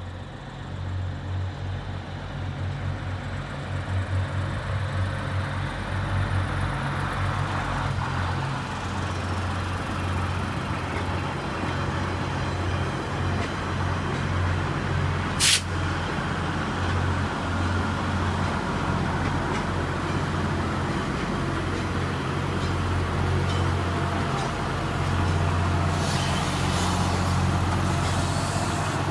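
Diesel engines of a VIA Rail Budd RDC (Rail Diesel Car) running with a steady low drone. A brief, sharp hiss cuts in about halfway through, and more hissy noise comes near the end.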